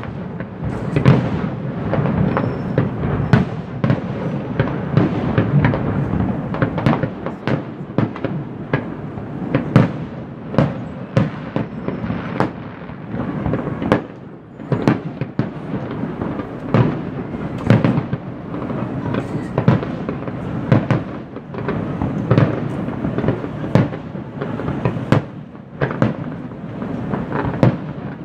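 Aerial fireworks display: shells bursting in a rapid, continuous run of booms and crackles, several bursts a second with no letup.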